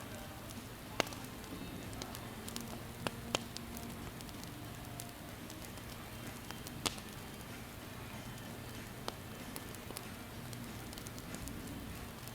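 Wood campfire burning with a steady low crackle and irregular sharp pops, the loudest about a second in and near the middle.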